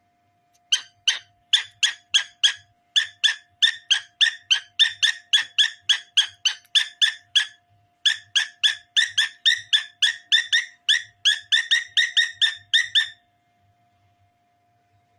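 Cockatiel calling in a fast series of short, high chirps, about three a second, with one brief break midway; the calling stops about two seconds before the end.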